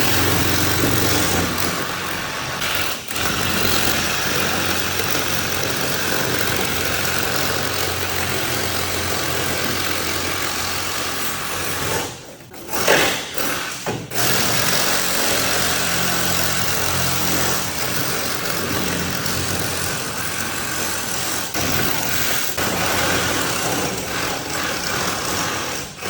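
Reciprocating saw running steadily as it cuts, with a short stop and restart about twelve seconds in.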